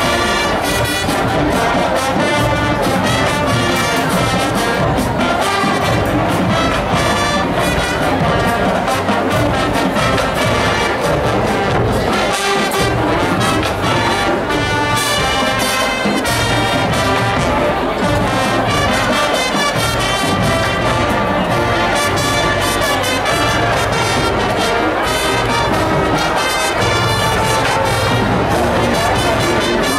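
High school marching band playing its field show: brass (trumpets and trombones) over a steady low beat.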